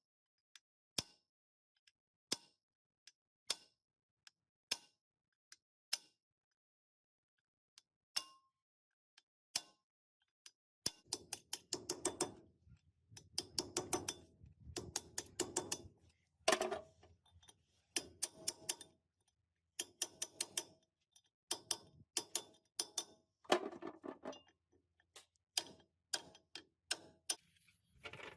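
Sharp taps, one about every second and a quarter at first. From about eleven seconds in they come in quick clusters, with a faint low rumble beneath.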